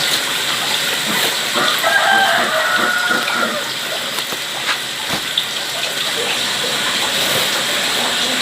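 A rooster crowing once, about two seconds in, over a steady rush of running water.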